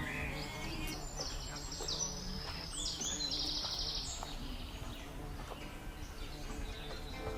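Small birds chirping in quick, high runs of notes, thickest between about one and four seconds in, over a steady low outdoor background noise.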